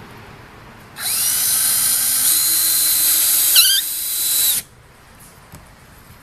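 Cordless drill/driver driving screws through a strap hinge into the barn door's wood. The motor whines steadily for about three and a half seconds, wavers briefly in pitch near the end, then stops suddenly.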